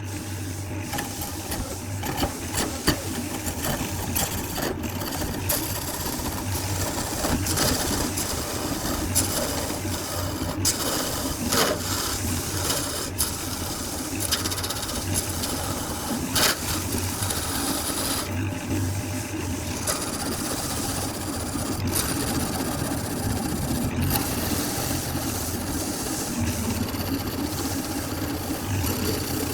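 Wood lathe running with a steady hum while a tool or abrasive rasps against the spinning workpiece, with scattered sharp ticks.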